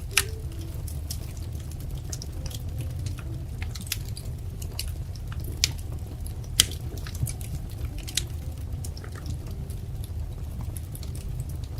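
Wood fire crackling, with irregular sharp pops and snaps over a steady low rumble of the burning logs; the loudest pops come just after the start and about five and a half and six and a half seconds in.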